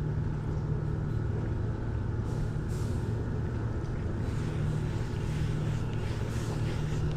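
Steady low mechanical drone with a constant low hum, unchanging throughout.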